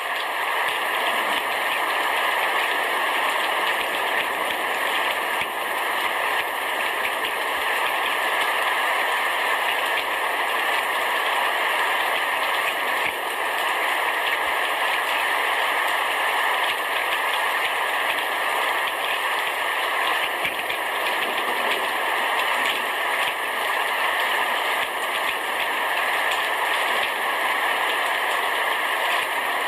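Heavy rain falling steadily on a roof, a dense, even downpour with no let-up.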